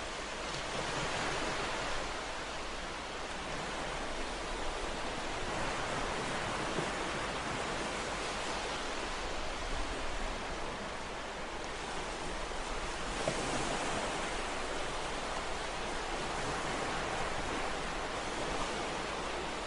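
Ocean waves washing on a shore: a steady surf hiss that swells and eases gently every few seconds.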